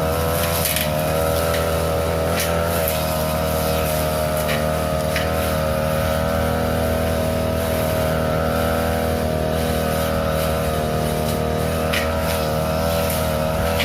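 Small petrol engine of a grass-cutting machine running steadily at high speed while cutting overgrown grass, with a few brief sharp ticks.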